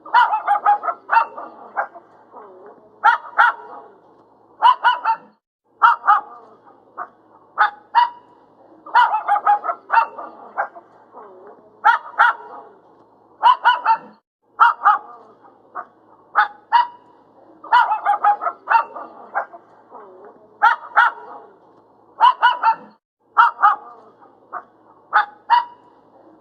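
Dog barking repeatedly in short clusters of sharp barks, the same run of barks recurring about every nine seconds.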